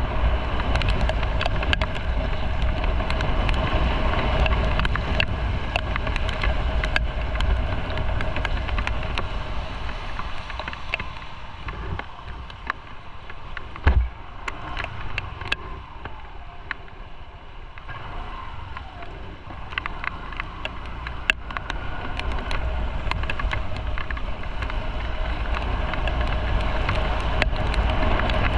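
Motorcycle on the move: engine running under wind and road noise on the microphone. The sound eases off for several seconds in the middle, with a single sharp knock about halfway through, then builds back up.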